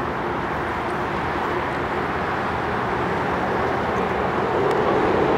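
Seoul Metro Line 2 electric train approaching over an elevated railway bridge: a steady rumble that grows louder in the last second or so.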